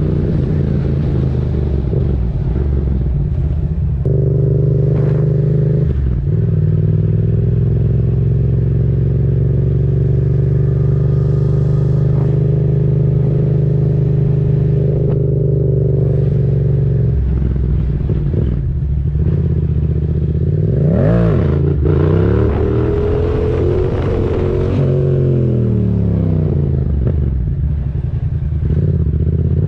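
Yamaha MT-07's 689 cc parallel-twin engine through a MIVV aftermarket exhaust with the dB killer removed, under way. The revs hold steady for about ten seconds, then rise and fall in several surges toward the end.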